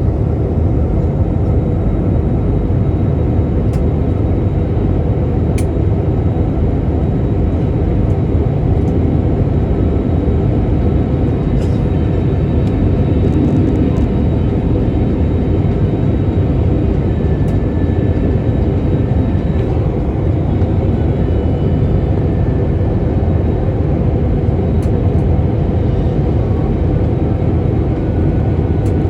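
Airliner cabin noise heard from inside the plane in flight: the steady, deep drone of the engines and the air rushing past the fuselage, with a faint high whine over it.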